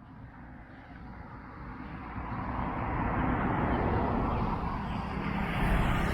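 A motor vehicle passing close by, its engine and tyre noise growing louder over the first three seconds and staying loud.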